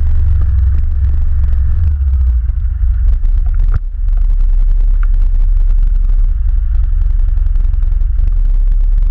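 ATV engine running as the quad drives over rough forest ground, a steady low drone with scattered knocks and rattles. It dips briefly a little under four seconds in.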